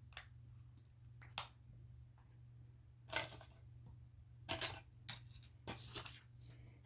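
Faint, scattered clicks and rustles of small items and packaging being handled, with a low steady hum underneath.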